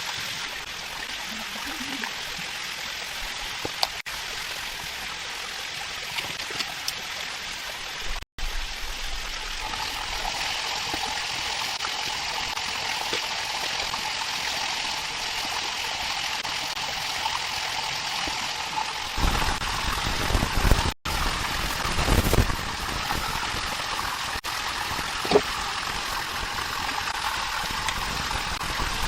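Steady rushing of running water, as from a rainforest stream, with two brief dropouts. Low rumbling and a few knocks come in during the second half.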